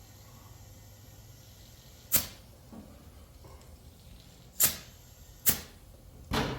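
Four short hisses of compressed air from an air chuck on a riding mower's tire valve, fading quickly each time, as the flat tires are aired up. The last hiss is a little longer.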